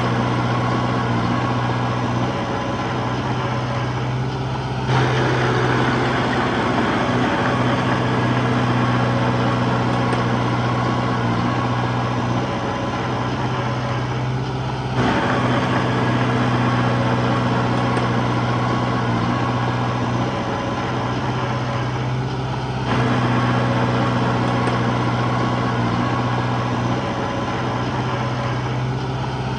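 Small crawler bulldozer's diesel engine running steadily while working soil, the machine noise rising and falling abruptly about 5, 15 and 23 seconds in.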